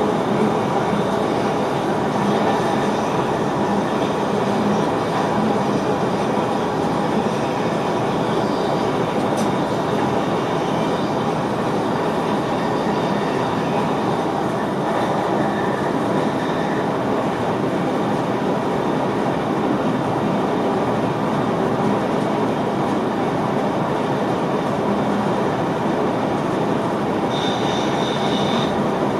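Cab noise of an NS VIRM double-deck electric train running along the line: a steady rumble of wheels on the rails and the rush of the ride. A brief high tone sounds near the end.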